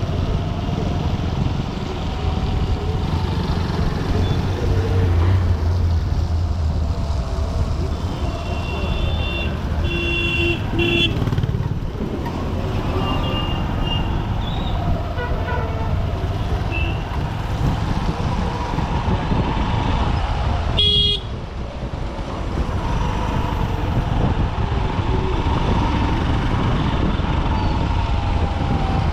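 Motorcycle ride in dense city traffic: the Honda SP125's single-cylinder engine running under wind and road noise, with other vehicles' horns honking repeatedly around a third of the way in, a short loud blast about two-thirds through, and another at the very end.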